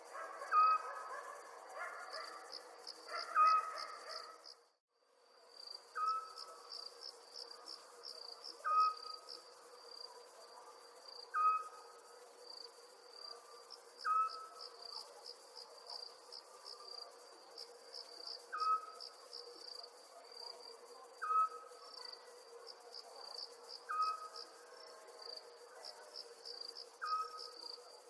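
Night-time crickets chirping in a steady, rapidly pulsing high trill. A short call repeats about every two and a half seconds below it. All sound drops out briefly about five seconds in.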